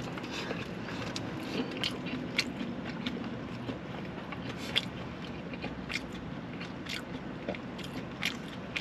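Close-up chewing and biting into food, with scattered short crunches and mouth clicks over a steady low background.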